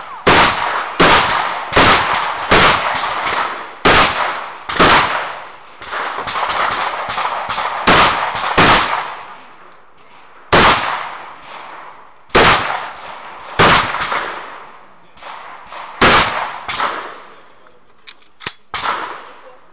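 Shotgun fired rapidly in quick strings, about fifteen shots with short pauses between groups, each shot trailing off in echo. A few faint clicks come near the end.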